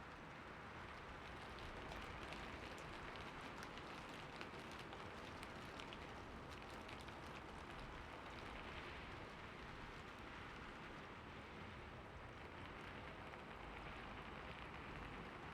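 Soft steady rain falling on hard city surfaces, a constant hiss with the light ticks of individual drops.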